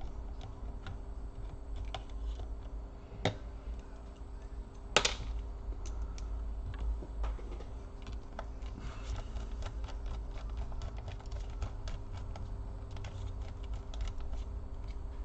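Light clicks and taps of a hard drive and small parts being handled and fitted into a laptop's open chassis, with two sharper clicks about three and five seconds in. A steady low hum runs underneath.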